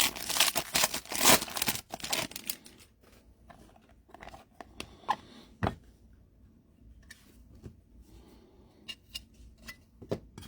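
A foil trading-card pack wrapper being torn open and crinkled for about the first three seconds, then scattered light clicks and taps as the cards are handled.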